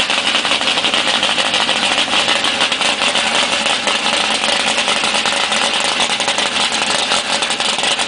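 Car engine running steadily, with a rapid, even train of exhaust pulses and no revving.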